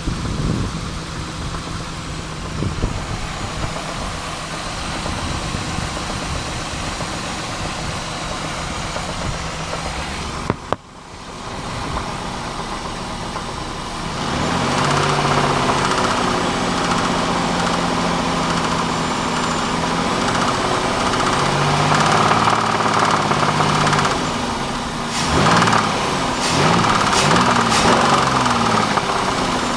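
Pontiac Bonneville's 3.8-litre V6 running with a knock, the rod knock of a blown engine with coolant in the oil. It idles at first, then runs louder and higher from about halfway, with the revs rising and falling a few times near the end.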